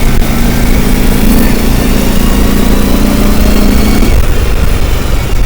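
Vehicle engine running, with a low rumble throughout and a steady hum that drops away about four seconds in.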